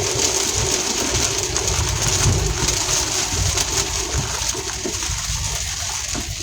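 Heavy rain pattering on a vehicle's roof and windshield, a dense patter of drops over the low hum of the engine, easing slightly toward the end.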